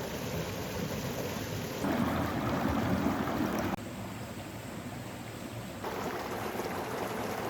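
Valley stream flowing over rocks, a steady rush of water, heard in a few short clips that cut abruptly from one to the next.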